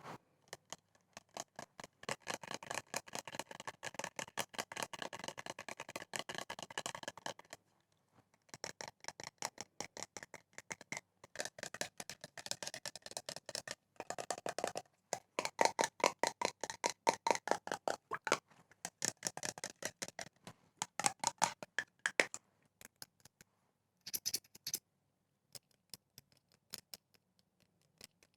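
ASMR tapping: rapid, light taps on a series of different objects, in quick runs with short pauses, about eight to ten taps a second. The pitch of the taps changes from one object to the next. The last few seconds hold sparser, scattered taps.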